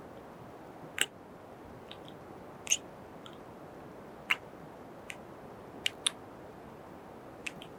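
Close-miked kiss sounds: short, sharp lip smacks, about seven at irregular intervals, over a faint steady hiss.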